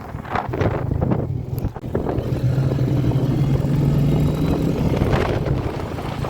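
Royal Enfield Meteor 350's single-cylinder engine running under way, with wind noise. Its steady note rises a little about halfway through and eases off near the end.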